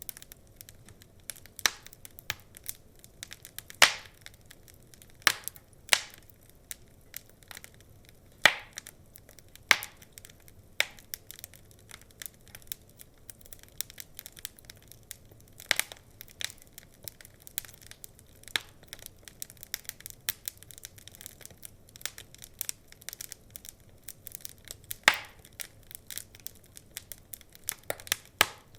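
Log fire crackling: a continual scatter of small irregular snaps with a handful of louder pops.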